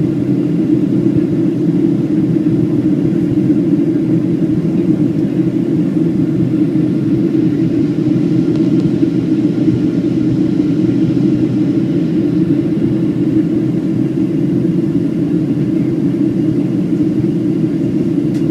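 Steady cabin noise inside a Boeing 737-700 in flight: an even, unbroken low rumble of airflow and engines.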